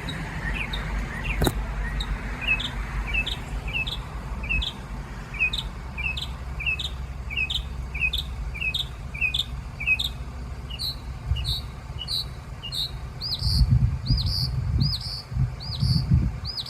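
Northern mockingbird singing: one short chirp repeated over and over, about three a second, then switching to a different, higher arched note repeated the same way. A low rumble lies underneath, louder near the end.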